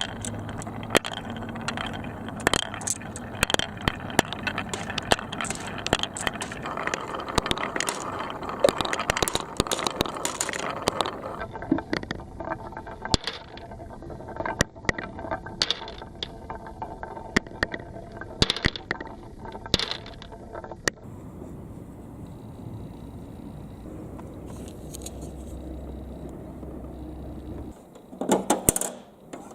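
Small hard balls rolling and clattering down a twisting marble run, with many quick clicks and knocks against the track. The clicks thin out after about twenty seconds, leaving a quieter rolling sound, and a few louder knocks come near the end.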